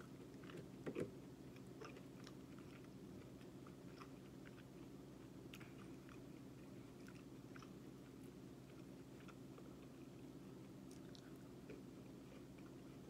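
Faint close-up chewing of a sauce-dipped chicken nugget: soft, scattered wet mouth clicks, a slightly louder one about a second in, over a steady low hum.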